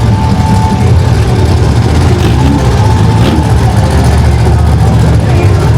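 Mini monster truck engines running loudly with a steady low drone.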